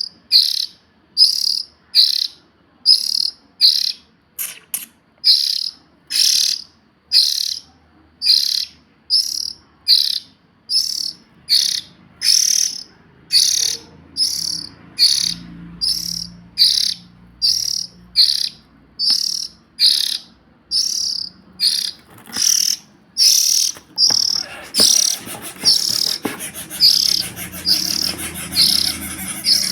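Young oriental magpie-robin calling one short, high note over and over, a little under two times a second. From about 24 seconds in, denser chirping joins underneath.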